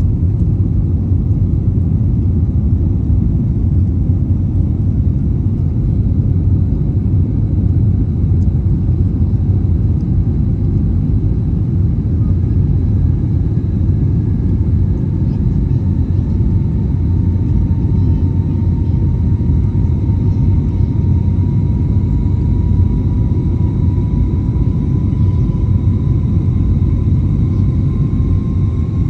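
Steady, loud, low rumble of an Airbus A321neo's CFM LEAP-1A turbofan engines heard inside the cabin. A faint whining tone rises slowly in pitch through the second half.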